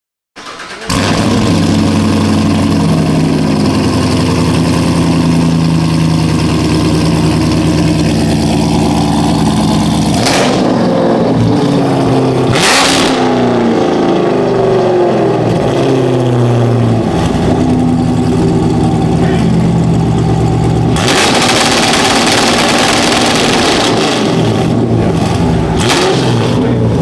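2019 Camaro SS's 6.2-litre V8 running through a straight-piped exhaust with the muffler deleted. It holds a steady drone for about ten seconds, then revs up and down, with loud rushing bursts in between.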